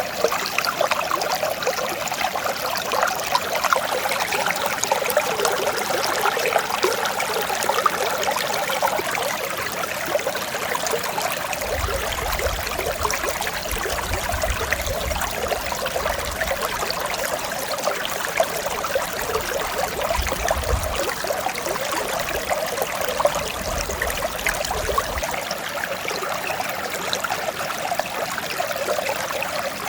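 A mountain stream running steadily, with an unbroken rush and trickle of water.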